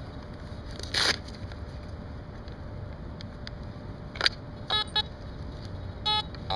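Fisher metal detector sounding short pitched beeps over a buried target, three of them in the second half: a strong, high-numbered signal. Two brief scuffs come before, one about a second in and one about four seconds in.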